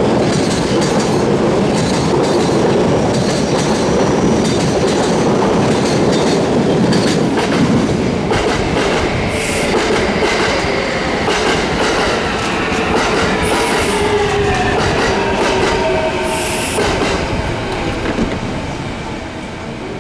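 Electric commuter train running out of the station: a steady rumble with wheels clattering over the rail joints. From about eight seconds in, shifting squeals and whines join it, with brief shrill shrieks. The sound fades near the end as the train leaves.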